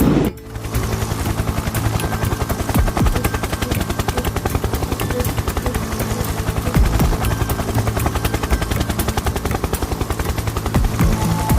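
A small spinning rotor or propeller of a handmade flying toy, giving a rapid, steady helicopter-like chopping flutter over a low rumble.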